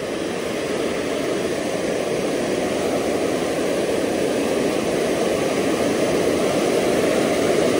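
Steady rushing of creek water spilling over a low dam, growing slightly louder over the few seconds.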